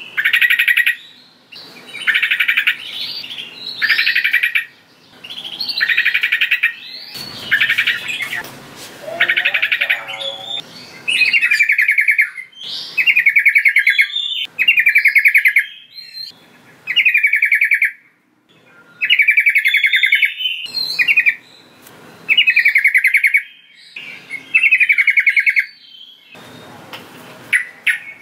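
Yellow-vented bulbul (trucukan) singing a run of short, bubbling phrases of quick repeated notes, one about every two seconds. The calls are the kind used to lure other trucukan.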